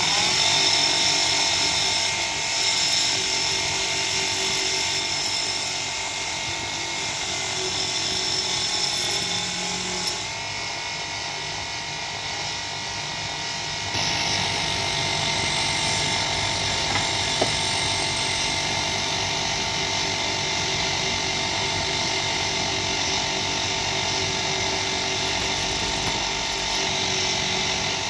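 A small electric power tool's motor running steadily with a whine, stepping up slightly in pitch about ten seconds in and getting louder about fourteen seconds in.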